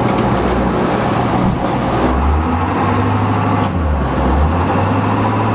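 International 7.3-litre V8 turbo-diesel engine of a school bus revving under load in forward gear, trying to pull the bus out of a snowdrift; its engine speed rises and falls several times.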